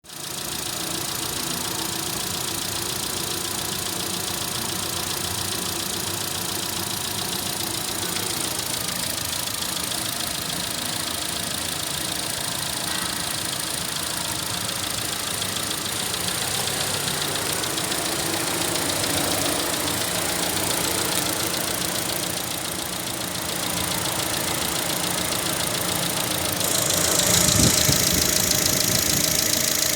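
Holden Cruze 1.8-litre four-cylinder petrol engine running steadily at idle, getting louder near the end.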